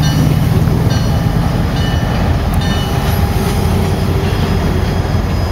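Freight train cars rolling along the rails with a steady loud rumble. Faint short metallic squeaks recur about once a second.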